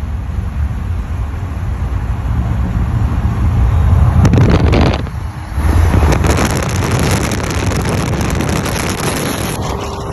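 A car driving, with engine and exhaust rumble and wind buffeting the microphone. The sound swells about four seconds in, drops briefly just after five, then picks up again.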